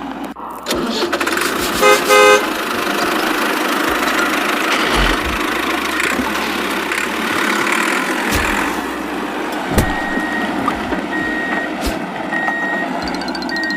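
A vehicle horn gives two short toots about two seconds in, over steady engine-like running noise. Later come four short, evenly spaced high beeps.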